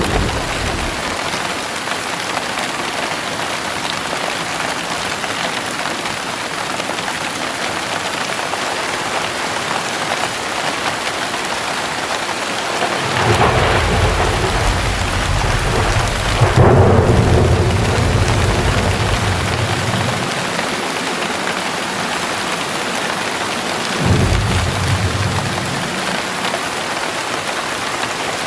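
Heavy rain falling steadily in a thunderstorm. Thunder rolls in about halfway through, rumbling for several seconds, and a shorter rumble comes near the end.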